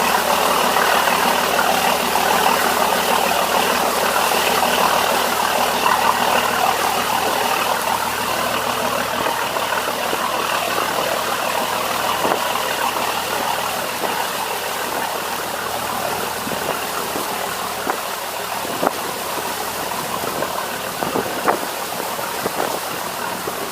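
Fishing boat's engine running steadily under way, a low hum under a broad hiss. It eases slightly after about eight seconds, with a few sharp knocks near the end.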